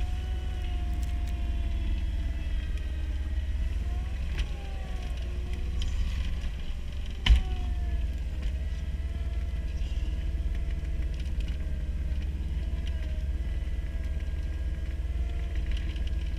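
Cat skid loader's diesel engine running steadily under load while it pushes snow, its note rising and falling a little; the owner says a bad injector keeps it off full power. A single loud clank comes a little past the middle.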